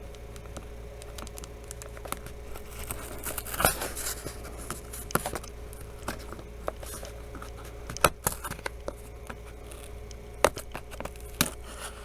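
Package being opened by hand: packaging torn and crinkled, with scattered sharp snaps and rustles.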